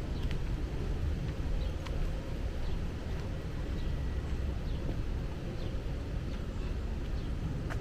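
Outdoor woodland ambience: a steady low rumble throughout, with faint, short bird chirps scattered over it and one thin held high note about halfway through.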